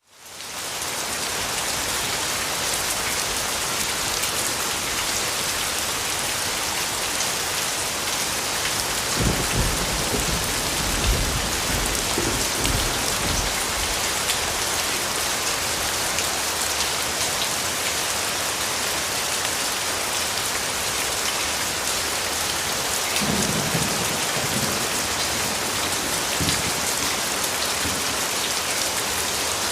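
Steady heavy rain falling, fading in over the first second, with low rumbles of distant thunder about a third of the way in and again in the last third.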